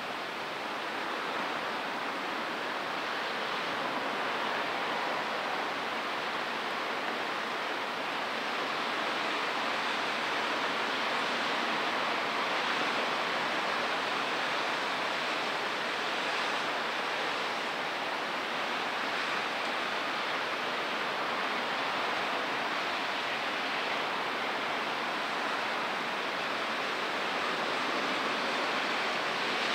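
Steady thunderstorm rain, a dense even hiss that grows a little louder over the first several seconds and then holds.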